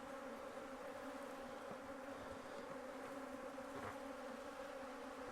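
Honeybees buzzing in a steady hum around a disturbed hive being moved and rearranged.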